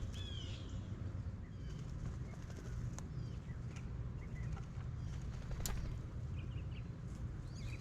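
Faint chirps of small birds over a steady low rumble, with a few sharp clicks.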